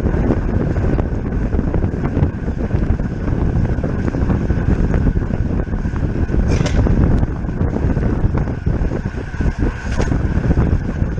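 Wind rushing over the microphone of a road bike's camera at racing speed, a loud steady buffeting, with two brief hissing flares partway through.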